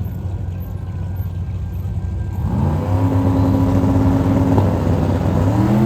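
Drag-race car engine over a low rumble, revving up about two and a half seconds in and holding high revs steadily, then dipping and climbing again near the end.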